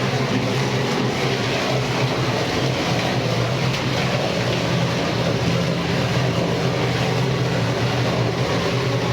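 Electric-motor-driven meat grinder running steadily: a constant hum with a wide whirring noise over it.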